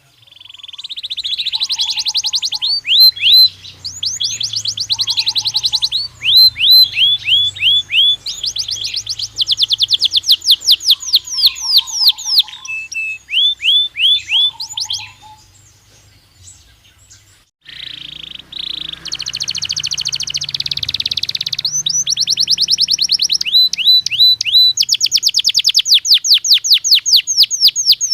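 Belgian canary singing: fast trills of repeated falling notes, one run after another. The song pauses for about two seconds partway through, then starts again.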